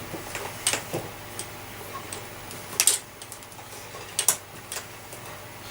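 A handful of short, scattered clicks and knocks of handling on an upright vacuum cleaner as it is readied for a test run; its motor is not running.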